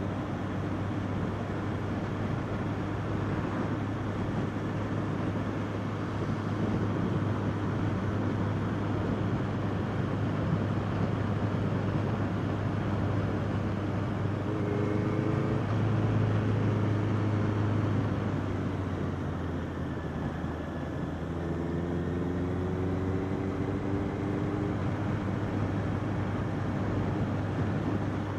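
Honda CBR650R inline-four engine running under way, with wind and road noise from riding. The engine note rises a little about halfway through and climbs again a few seconds later.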